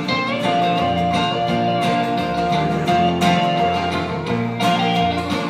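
Instrumental country band music with guitar between sung verses, a single melody note held for about four seconds.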